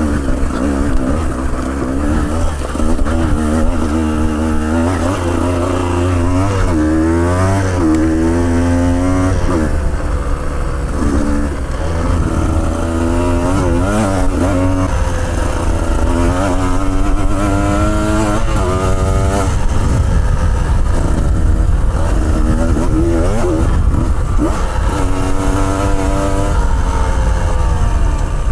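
Motorcycle engine running under changing throttle, its pitch rising and falling again and again as the revs go up and down on a rough dirt track, over a steady low rumble.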